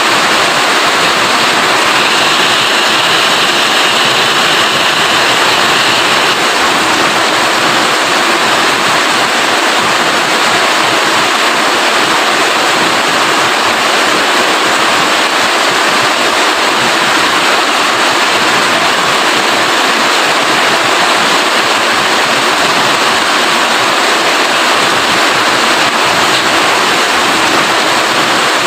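Steady heavy rain, a dense even hiss of falling water without letup.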